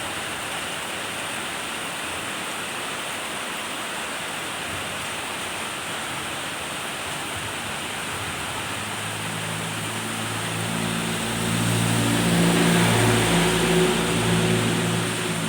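Steady rain falling with an even hiss. About nine seconds in, a vehicle's engine hum joins it, growing louder to its peak a few seconds before the end and easing slightly near the end.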